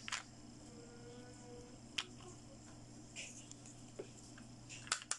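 Plastic toy doctor-kit pieces clicking and tapping as they are handled and set down: a few single clicks spaced out, then a quick run of clicks near the end.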